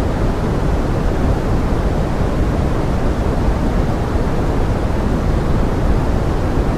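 Steady pink noise blended with forest rain: an even, unbroken hiss, fullest in the low end, with no single drops or other events standing out.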